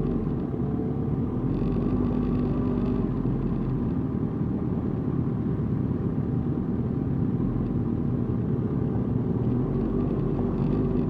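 Motorcycle engine running steadily as the bike rides, a continuous low rumble: the Suzuki GSX-R 1000's inline-four, heard from the rider's seat.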